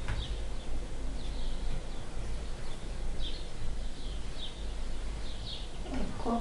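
Birds chirping in short high calls every second or so, over a steady low hum.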